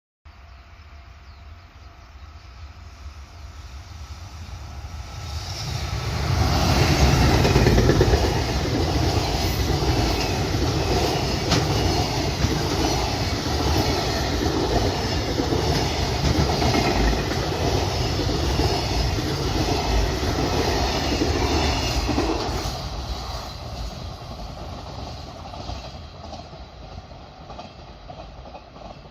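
Freight train passing by: it approaches, then runs past for about fifteen seconds with a steady rhythmic clatter of wheels over the rail joints, and fades away over the last several seconds as it recedes.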